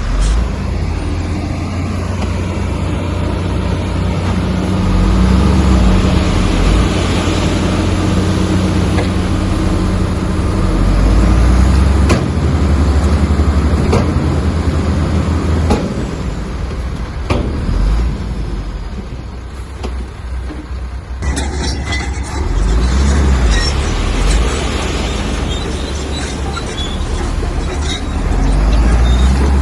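Heavy diesel earthmoving machinery running under load, with a deep engine drone and several sharp clanks in the middle. The sound dips briefly and changes a little past two-thirds of the way through.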